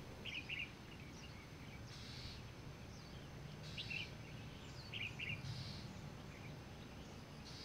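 Faint outdoor ambience: a few short bird chirps, a couple right at the start and a cluster about four to five and a half seconds in, over a steady low background hum.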